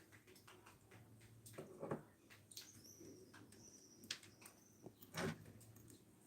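Faint birdsong: a thin, high whistled note held for about two seconds in the middle, among scattered short calls, with two louder short sounds about two seconds in and near the end.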